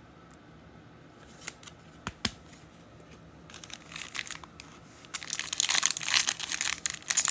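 A few light clicks, then from about five seconds in the crinkle and tear of a foil trading-card pack wrapper being ripped open.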